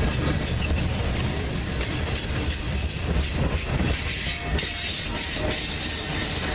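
Freight train rolling past, a steady heavy rumble of wheels on rail.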